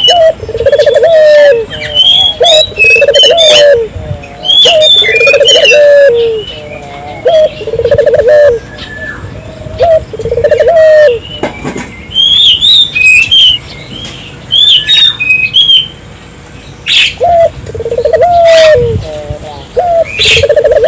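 Puter dove calling vigorously, a series of rhythmic cooing phrases repeated every second or so, with a break in the cooing near the middle before it resumes. Other birds chirp higher up throughout.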